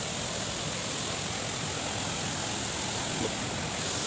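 Steady rushing noise of a waterfall, an even wash of falling water with no breaks.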